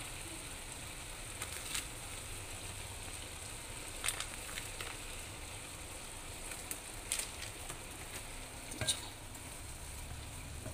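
Grated carrots in desi ghee sizzling steadily in a pan, with a wooden spatula stirring and now and then knocking against the pan in a few sharp clicks.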